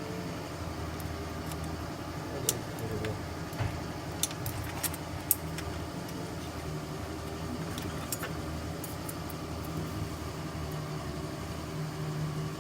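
A car engine running steadily, with several sharp metallic clinks over it; the loudest clink comes about five seconds in.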